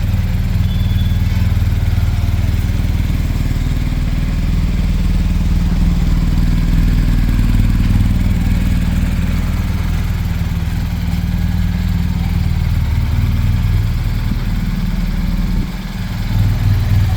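BMW R 1250 GS's boxer-twin engine idling steadily, with a brief dip in level about a second and a half before the end.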